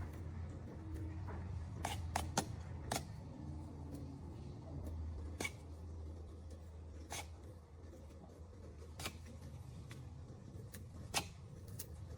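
A series of sharp, separate clicks or snips, about eight of them at irregular intervals, over a steady low hum.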